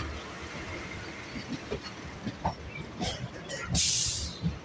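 Suburban electric train running, with the low rumble and irregular knocks and rattles of the carriage over the track. A loud rushing hiss comes in briefly near the end.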